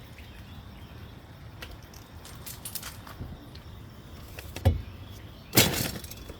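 A feed scoop put back into a fish food tub and the tub's lid closed: a sharp knock about four and a half seconds in, then a louder, longer clatter about a second later.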